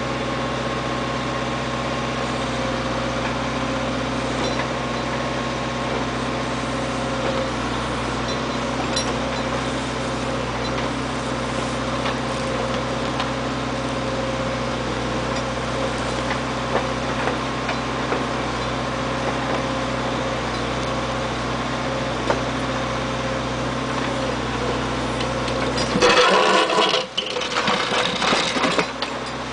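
Backhoe engine running at a steady idle. About three seconds before the end, a louder, harsher noise breaks in for a few seconds while the low engine hum drops away.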